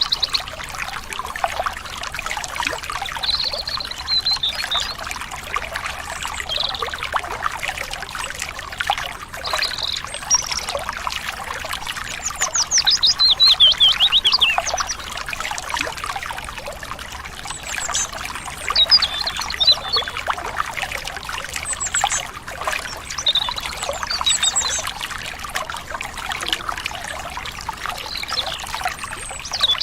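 A stream trickling and splashing steadily, with small birds chirping every few seconds over it. About twelve seconds in, one bird gives a quick trill that falls in pitch.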